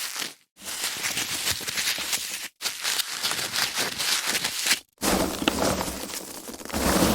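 Foam packaging being handled: dense crinkling, rubbing and crackling in short takes broken by three brief silences, the last take fuller and louder toward the end.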